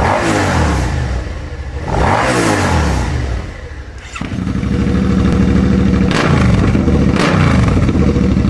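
Suzuki SV650 ABS V-twin engine revved with short throttle blips, its note rising and falling back each time; from about four seconds in it runs at a steady higher speed with two more quick blips.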